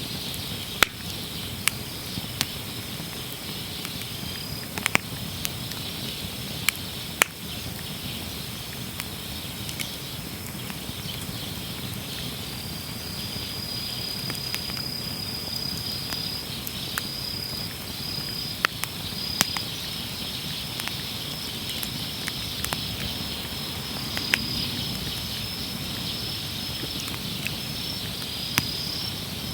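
Wood campfire crackling, with irregular sharp pops over a low rumble of flame. A steady high insect trill runs behind it.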